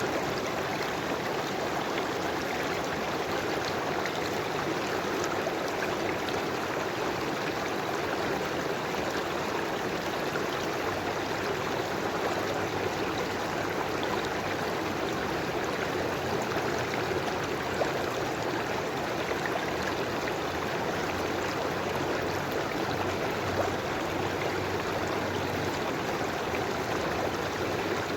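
River water flowing steadily over stones, a continuous even rush with faint small splashes.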